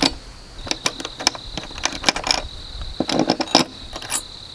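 Small metal hardware clinking and tapping: nuts, bolts and washers handled and fitted while assembling a chainsaw mill frame. A steady high cricket trill runs behind.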